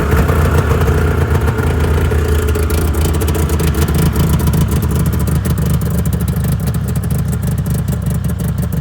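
Yamaha Mountain Max snowmobile's two-stroke engine running steadily at idle just after a cold start, with a light clatter over the engine note.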